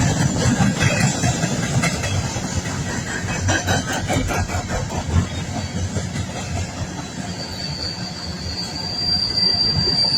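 Coal train cars rolling past at close range, steel wheels clacking over the rail joints with a heavy rumble. About seven seconds in, a high steady wheel squeal begins and grows louder.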